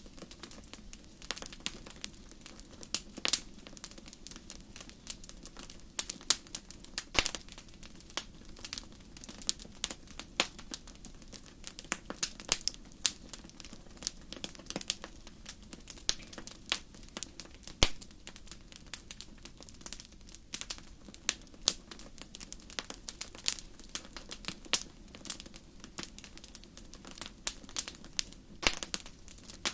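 Wood campfire crackling: irregular sharp pops and snaps of burning wood over a soft steady hiss.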